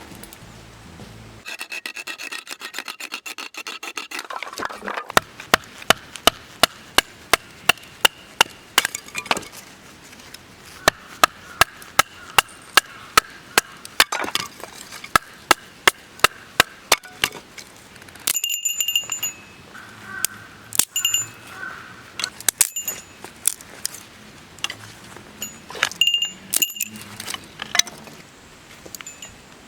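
Repeated sharp knocks, about two a second for over ten seconds, after a short stretch of scraping, with a few short ringing clinks near the middle and later.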